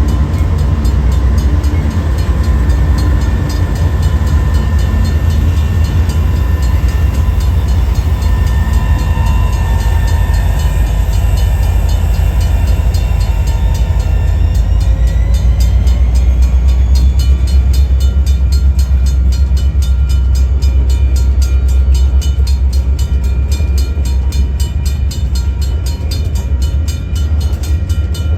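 Freight train rolling past, a loud, steady rumble of cars on the rails with thin high tones that drift in pitch partway through.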